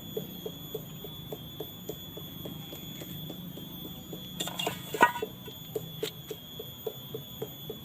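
A banana heart being peeled by hand: a brief rustle and one sharp snap about five seconds in as a bract is torn off. Underneath runs an even ticking pulse of about four ticks a second.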